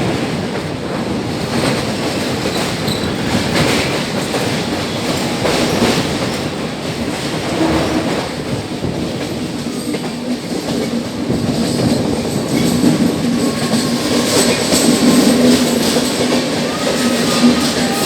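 Passenger express train running on track, its wheels clattering over rail joints in a steady rolling noise. A steady hum joins in about two-thirds of the way through, and faint wheel squeal sounds near the end.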